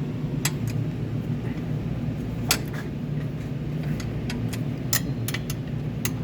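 Metal hand tools clinking: a scattering of sharp single clicks and taps, some in quick clusters, over a steady low machine hum.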